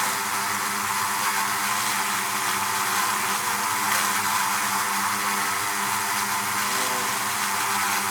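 Steady buzzing drone of many honey bees at a hive, a low hum with a dense hiss of wingbeats above it, unbroken.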